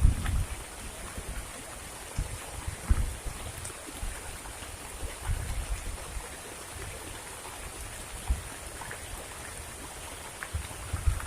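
Heavy rain falling as a steady hiss, with irregular low rumbles of wind gusting on the microphone every second or two.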